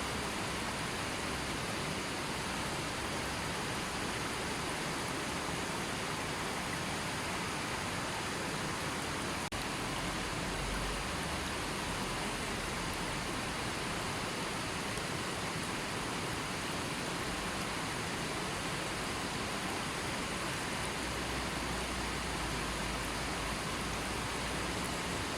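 River water flowing gently: a steady, even rushing with no change in level.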